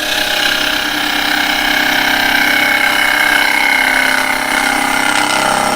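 Wood lathe turning a wet cherry bowl blank while a carbide tool cuts into it: a steady mechanical hum with a high whine over a scraping noise.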